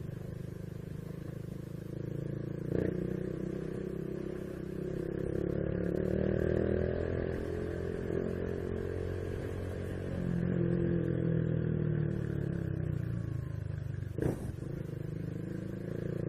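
Honda Biz 125's single-cylinder engine running on the road, its pitch rising and falling twice as it speeds up and eases off. A sharp click about three seconds in and another near the end.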